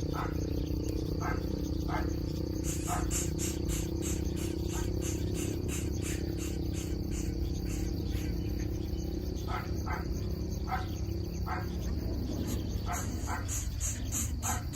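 Insects chirping in a steady rapid pulse, about three a second, with short separate call notes scattered through it over a low steady hum.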